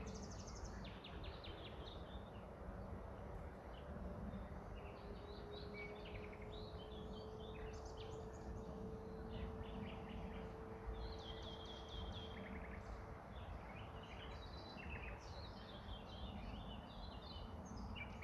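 Outdoor ambience of several small birds chirping and calling on and off, over a steady low background rumble with a faint hum in the middle of the stretch.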